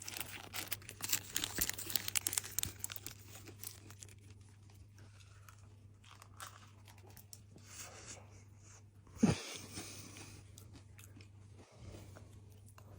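Crisp pastry being bitten and chewed close to the microphone: a dense run of crunching crackles for the first few seconds, then quieter chewing. A short voiced 'mm'-like sound comes about nine seconds in, over a faint low hum.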